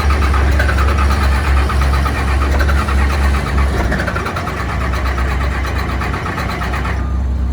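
An engine running: a loud, steady deep rumble with a fast rhythmic clatter over it. The clatter stops abruptly near the end.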